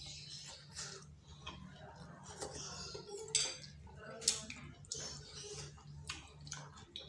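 Close-up eating sounds from a bowl of bakso: a spoon clinking and scraping against the bowl between mouthfuls, with two sharper clinks about three and four seconds in.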